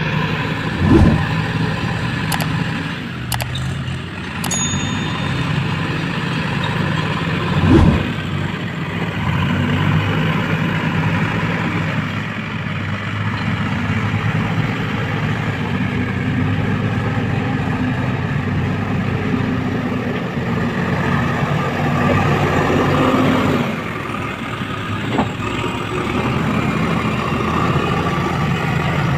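Diesel engines of a JCB 3DX backhoe loader and tractors running under varying load, the engine note rising and falling. Two sudden heavy thumps come about a second in and again near eight seconds in.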